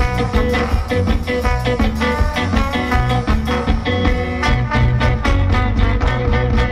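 A live band playing an instrumental passage with a steady beat and heavy bass. About halfway through, the drums come through more sharply with regular cymbal or hi-hat hits.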